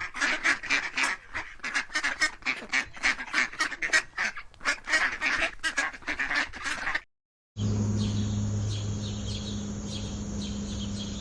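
A flock of waterfowl calling in a rapid, overlapping chatter. About seven seconds in it cuts off; after a brief silence comes a steady low hum with faint, repeated high chirps.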